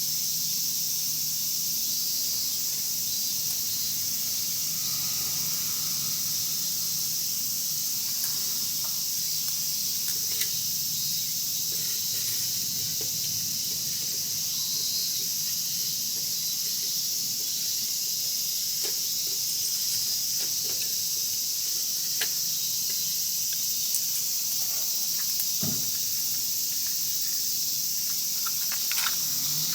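Wood fire crackling with sparse, irregular pops and snaps over a steady high-pitched hiss.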